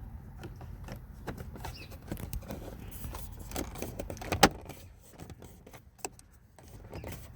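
Plastic fuse box door being fitted into the dashboard side trim of a 2017 Chevrolet Cruze: light clicks and rattles of the panel being handled, with one sharp snap about four and a half seconds in and a smaller click about six seconds in.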